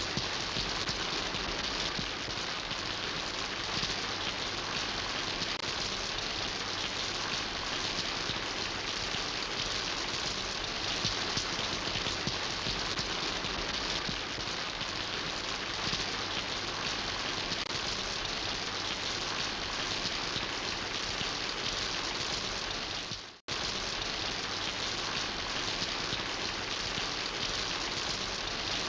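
Steady rain falling and pattering on surfaces, a dense even hiss of drops. It drops out for a split second about four-fifths of the way through, then carries on as before.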